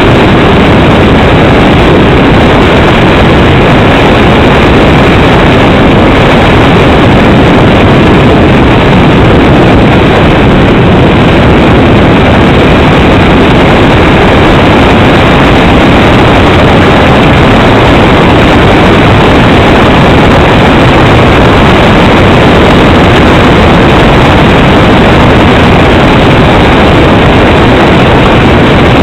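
Aircraft engine and rushing airflow heard on board, loud and steady with no change in pitch or level.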